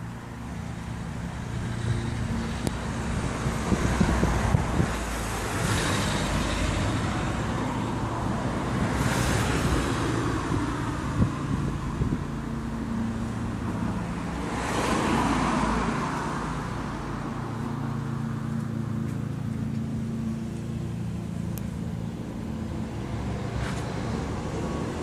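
Road traffic: a steady engine drone runs throughout while vehicles pass by three times, about five, nine and fifteen seconds in, each swelling and fading.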